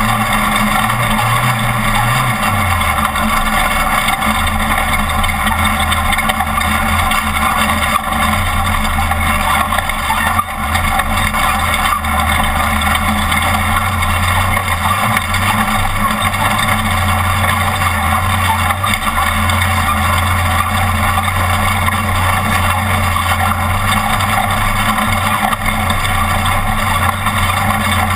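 Off-road race truck's engine running hard and steady, with a constant wash of noise. The engine note drops about two seconds in, then holds.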